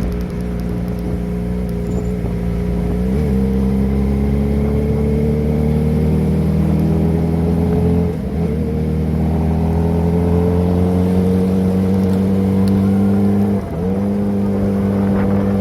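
Kawasaki ZX-25R's four-cylinder engine running under way through an aftermarket Prospeed exhaust, its note held high and rising slowly. It dips briefly about 3, 8 and 14 seconds in, like gear changes.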